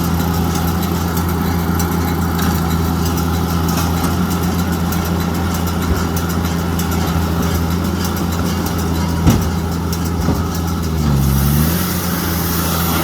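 Tractor engine running steadily while working a baler-wrapper in rice straw, with one sharp knock about nine seconds in and a brief dip and rise in engine pitch about eleven seconds in.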